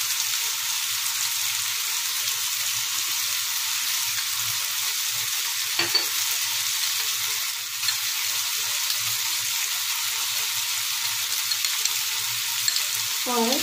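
Onions and capsicum in soy and chilli sauce sizzling steadily in a frying pan on the stove, with a single sharp click about six seconds in.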